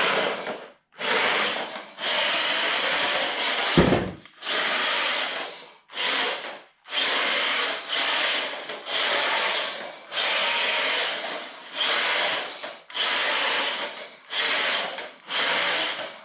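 JJRC Q123 1/16 RC drift truck's brushed 370 electric motor whining in about a dozen on-off bursts as the throttle is blipped, with the drift tyres sliding on a hard floor. A single sharp knock about four seconds in.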